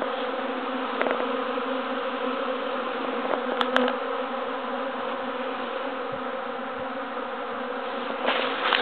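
A honeybee swarm buzzing in a dense, steady, many-toned hum, with a couple of brief clicks about one and four seconds in.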